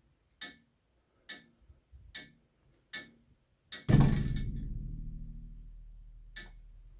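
Cold, idle heating pipe knocking by itself: sharp ticks about once a second, then about four seconds in a much louder knock that leaves the pipe ringing and slowly fading for a few seconds. The owner cannot explain the knocking.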